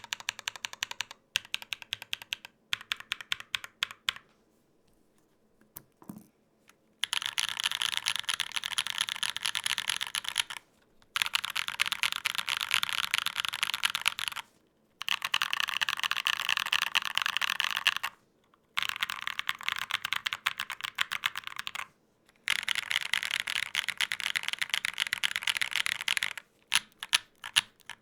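Typing on a Gok 7V custom 75% mechanical keyboard with lubed tactile switches. A few separate keystrokes come first, then a pause, then five runs of fast continuous typing a few seconds each with brief breaks between them, ending in a few scattered strokes.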